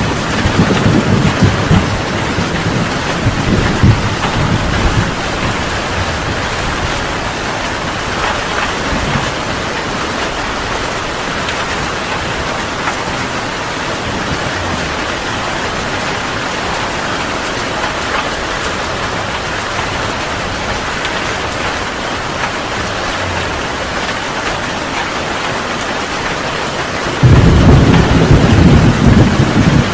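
Heavy rain falling steadily, with thunder rumbling low. A rumble fades out over the first few seconds, and a louder one starts abruptly near the end.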